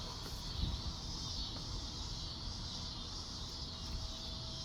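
Steady high-pitched insect chorus, typical of crickets, running without a break, over a low rumble.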